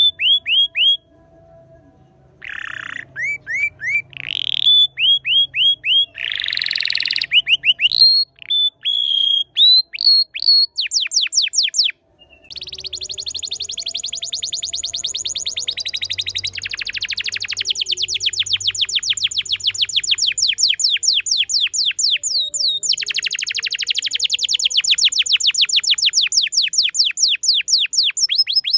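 A bird singing a varied song of repeated chirps. About halfway through it breaks into a long, fast trill of quick falling notes, around ten a second, with one short pause.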